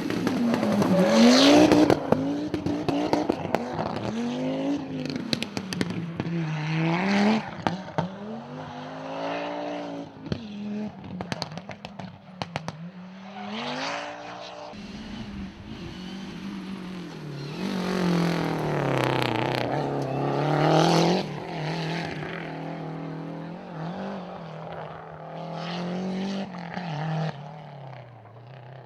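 Rally car engine revving hard, its pitch climbing and dropping again and again through gear changes and lifts, with a run of sharp crackles about halfway through. It is loudest near the start and again around two-thirds of the way in.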